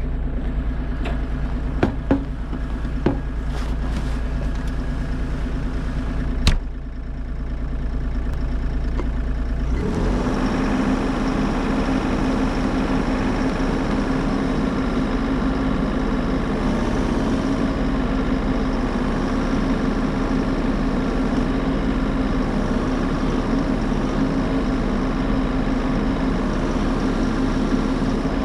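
Bobcat E50 compact excavator's diesel engine idling steadily while it warms up after a cold start. There are a few sharp clicks in the first seven seconds, and about ten seconds in the sound changes to a fuller, louder running.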